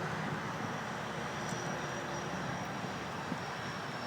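Steady roar of a large fire burning at a distance, an even outdoor rumble and hiss with a thin high whine running over it from about half a second in.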